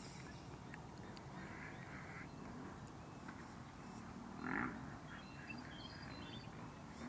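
A short animal call about halfway through, followed by a few faint high bird chirps, over a low steady outdoor background with occasional small clicks.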